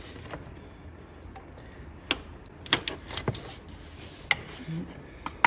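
A handful of sharp, irregular clicks and taps, about six over a few seconds, from tools and plastic wiring-harness connector locks being pried and worked loose.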